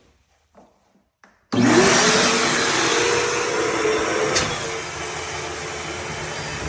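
A vacuum used for dryer vent cleaning switches on about one and a half seconds in. Its motor whine rises as it spins up, then it runs steadily with a loud rush of air.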